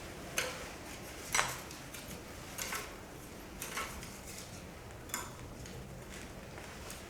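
Small wood fire crackling in a shichirin clay brazier, with a sharp pop every second or so.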